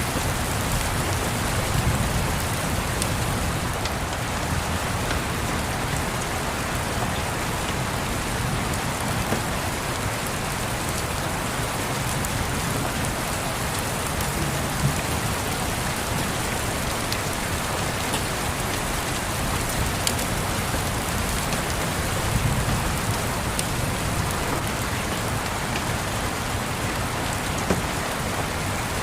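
Steady rain falling, with sparse sharp crackles from a wood fire and low rumbles of distant thunder swelling about two seconds in and again around twenty-two seconds.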